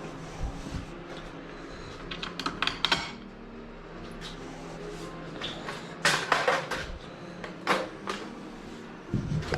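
Hand tools and small metal hardware being handled: scattered clicks and several short bursts of clatter, the loudest about six seconds in, over a steady low hum.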